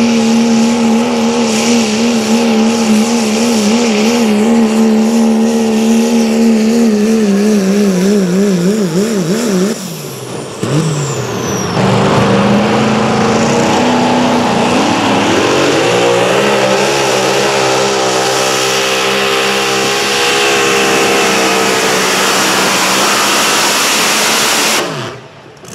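Pulling vehicle's engine running at high revs under full load; its pitch wobbles up and down, then falls away about ten seconds in. Another engine then revs up over a few seconds and holds at high speed.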